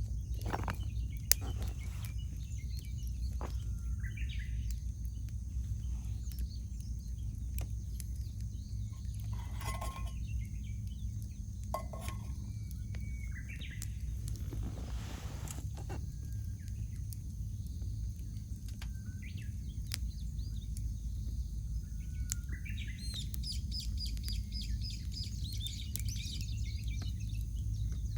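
Wild birds calling in several short phrases, the longest run near the end, over a wood campfire crackling with scattered sharp pops. A steady low rumble runs underneath.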